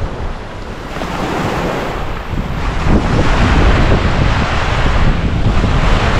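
Ocean surf breaking and washing up the beach, with wind buffeting the microphone; the waves swell louder about three seconds in.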